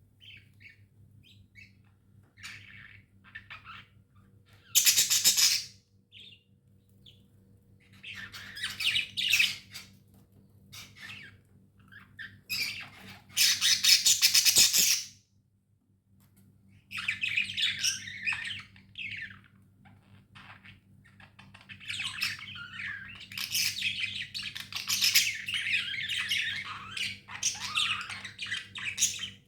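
Budgerigars chirping and chattering in bursts, with two loud harsh squawks about five seconds in and again around thirteen to fifteen seconds in, and denser chatter near the end. A faint steady hum runs underneath.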